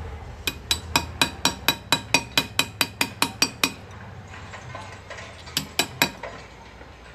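Hand engraver's hammer tapping a graver into metal: a quick, even run of about fifteen sharp metallic taps, roughly four a second, then a pause and three more taps.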